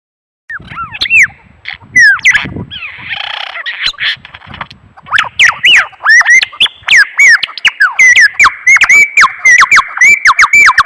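Birds calling loudly with sharp squawky notes that bend up and down in pitch. The calls begin about half a second in and come thick and fast from about halfway through.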